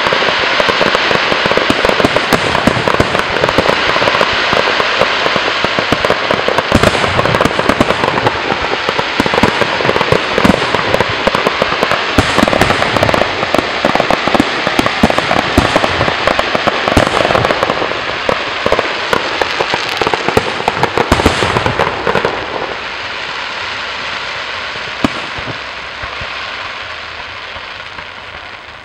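Fireworks display: a dense, continuous run of bangs and crackling. It thins out after about 22 seconds and fades toward the end.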